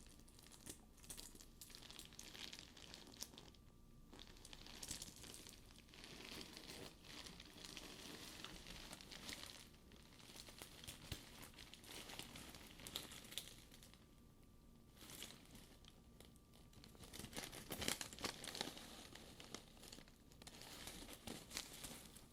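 Newspaper stuffing being crumpled and pulled out of a faux leather purse: soft, irregular paper crinkling that comes in spells with short quiet gaps, a little louder near the end.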